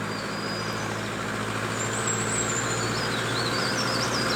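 A small songbird sings quick, high, twisting phrases, mostly between about two and four seconds in, over a steady low mechanical hum like an idling engine.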